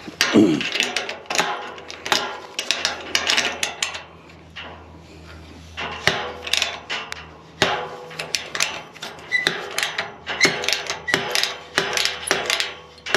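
Hand ratchet wrench clicking in quick spurts as the nuts on a farm gate's hinges are worked loose, with a quieter pause in the middle.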